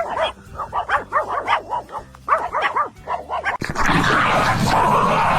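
A dog yipping and whining in quick, short, high calls for about three and a half seconds. Then there is an abrupt cut to a loud, steady rushing noise.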